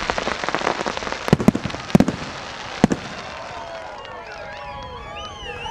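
Fireworks going off: a dense crackle with several loud bangs, the crackling dying away after about three seconds.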